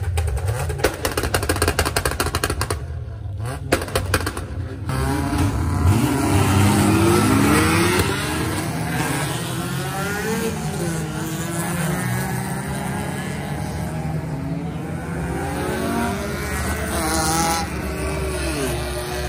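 Modified cars' engines revving and accelerating away one after another, their notes rising and falling and overlapping. For the first five seconds a rapid string of sharp exhaust pops and crackles sits over the revving.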